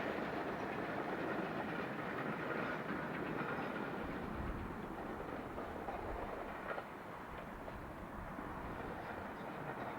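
Train rolling past on the track, its wheels clicking over the rail joints, the sound slowly fading as it moves away.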